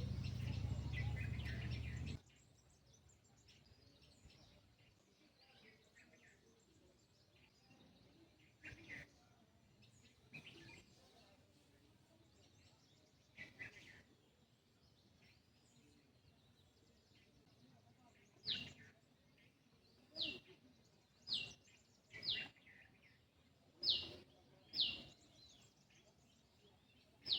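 Wild birds calling sparsely over a quiet background. Late on, one bird repeats a clear down-slurred whistle six times, roughly once a second. The first two seconds hold a louder rushing noise that cuts off abruptly.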